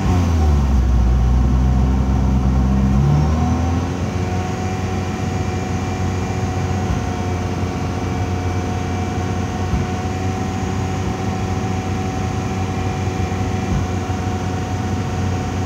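Car engine held at about 3000 rpm during a CNG conversion kit's calibration. Early on its pitch drops and then climbs back, as the system starts firing the gas injectors, and then it runs steadily.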